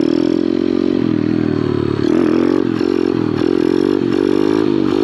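Small Kawasaki pit bike's single-cylinder engine revving hard under throttle. It holds steady at first, then from about two seconds in the revs dip and pick up again several times as the throttle is chopped on and off at the wheelie's balance point.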